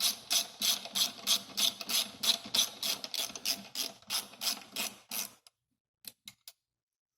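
Hand ratchet wrench clicking rapidly and evenly, about four clicks a second, as a bolt is backed out to take off the fuel tank. The clicking stops about five seconds in, and a few faint clicks follow.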